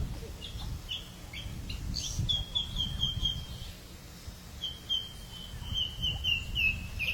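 A bird singing: scattered chirps, then a quick run of repeated high notes, and a second run that falls slightly near the end. A low rumble sits underneath.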